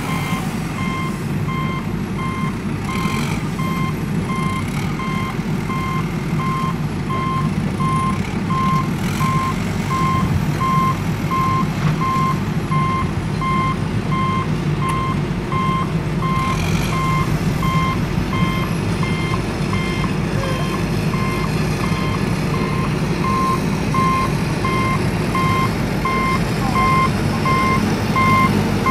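Truck reversing alarm beeping steadily, about two beeps a second, over a low engine rumble.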